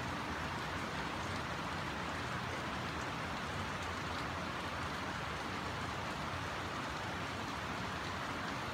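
Steady rainfall: an even, unbroken hiss of rain coming down.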